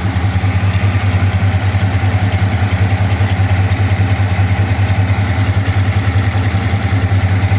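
1957 Ford Thunderbird's Y-block V8 idling steadily when warm, with an even low rumble, running on two barrels of its four-barrel carburettor.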